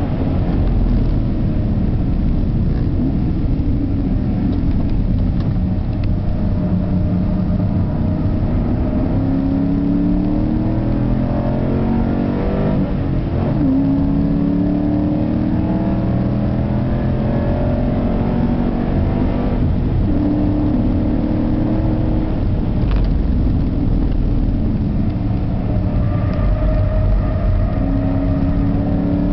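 Car engine heard from inside the cabin while lapping a race track, its pitch climbing repeatedly under acceleration. There is a sharp drop in pitch about halfway through before it climbs again, over a steady road and engine drone.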